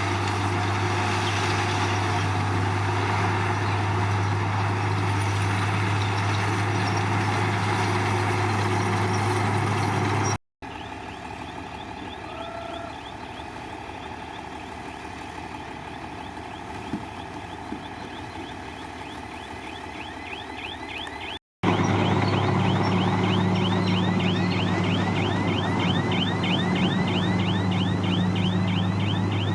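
Komatsu crawler bulldozer's diesel engine running under work, with a fast rhythmic squealing from the moving steel tracks. The sound is cut twice, and the middle stretch is quieter.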